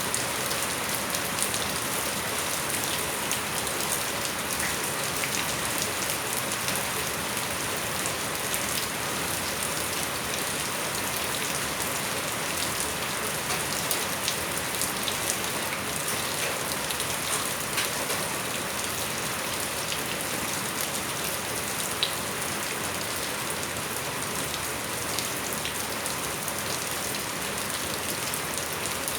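Steady rain falling, with scattered ticks of individual drops; one sharper tick stands out about three-quarters of the way through.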